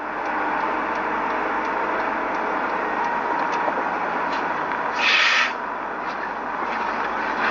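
Steady vehicle and road noise with faint ticks, and a short loud hiss about five seconds in.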